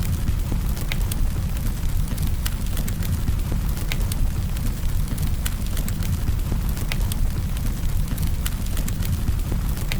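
Campfire burning, with sharp crackles and pops about once or twice a second over a steady low rumble.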